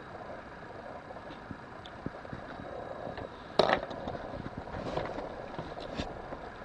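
Quiet steady background with a few light handling clicks and knocks; one sharp click about three and a half seconds in.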